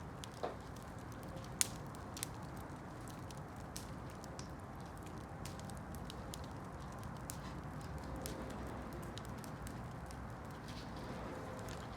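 Campfire crackling: irregular sharp pops and snaps over a steady low hiss of burning, with one louder pop about a second and a half in.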